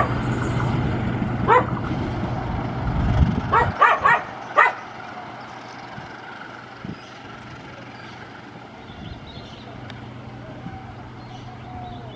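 Passenger train rolling away over the rails, its low rumble dropping off sharply a few seconds in. A dog barks about five times in the first five seconds, louder than the train.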